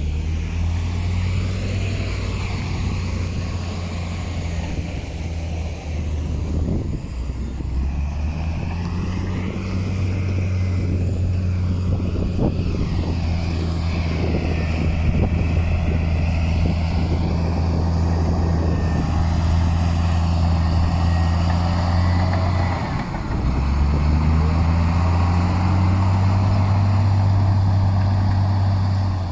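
Heavy diesel engine running steadily under load, with a deep hum; it drops off briefly about three-quarters of the way through, then picks back up.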